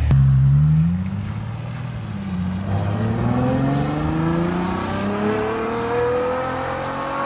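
Ferrari GTC4Lusso's V12 engine accelerating hard as the car pulls away. The pitch climbs, breaks at a gearshift about a second in, then rises steadily for several seconds as the car draws away.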